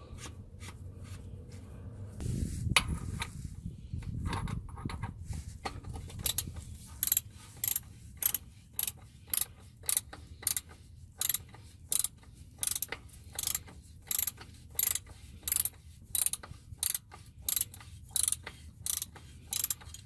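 Ratchet wrench clicking in short, evenly spaced bursts, about one and a half a second, as it spins the oil filter housing cap back on over many turns. Before that, a few seconds of low rubbing as the housing is started on its threads.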